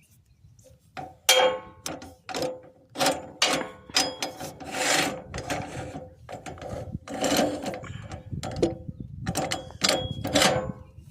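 Irregular metal clanks and scraping strokes, some ringing briefly, as log hooks on a basic sawmill are set into a log to clamp it.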